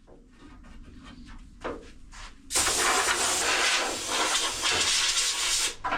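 Compressed-air blow gun hissing as it blows sanding dust out of a car's rubbed-down engine bay. There are faint short puffs at first, then a long loud blast from about two and a half seconds in that cuts off just before the end.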